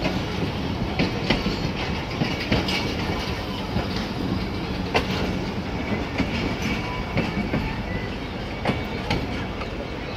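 Passenger coaches of a departing train rolling past at the platform, a steady rumble with frequent clicks of the wheels going over the rail joints.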